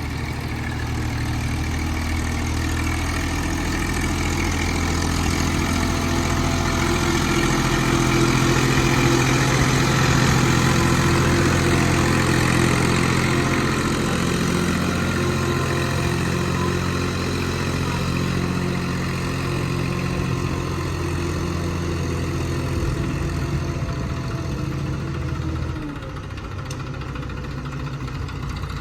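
Heavy diesel engine running steadily, working harder and louder about eight seconds in, then easing off and dropping in level near the end.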